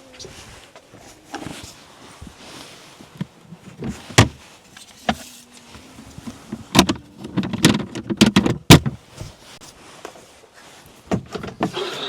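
Irregular knocks, clicks and clatter of things being handled and set down during food preparation, busiest in the middle of the stretch.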